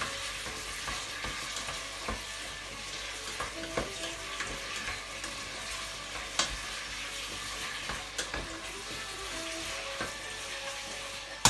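Chicken, onions and carrot sizzling in hot oil in a pan while being stirred, with a utensil knocking against the pan a few times.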